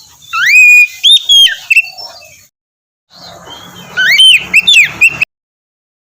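Oriental magpie-robin (kacer) singing: two loud bursts of rapid whistled phrases made of rising, sweeping notes. The second burst cuts off suddenly about five seconds in.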